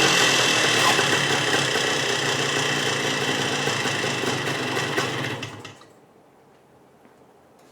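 1974 Bultaco Alpina 350's single-cylinder two-stroke engine running on its first start in eight years, with a newly fitted Mikuni carburettor. It settles down after a rev, then stops about five and a half seconds in.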